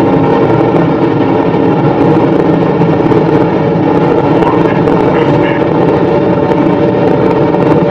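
BMW M6's V10 engine running steadily at high speed in seventh gear, around 300 km/h, with wind and road noise, heard from inside the cabin.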